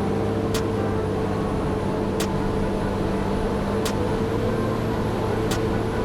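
Wheel loader's diesel engine running steadily, its pitch having just risen and now holding level, with a short sharp click about every second and a half.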